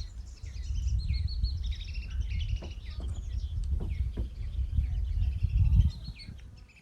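Several small birds chirping and warbling in quick, overlapping calls, over a low, uneven rumble that swells near the end.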